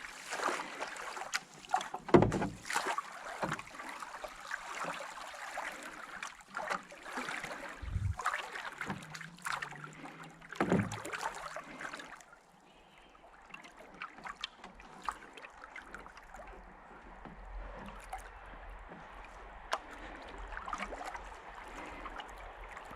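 Water swishing and dripping around a kayak drifting at rest between paddling efforts, with a few dull knocks in the first half. It turns quieter about halfway through.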